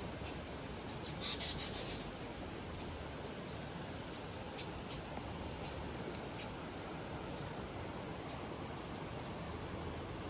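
Steady rush of flowing river water, with short bird chirps scattered over it and a brief burst of louder chirping about a second in.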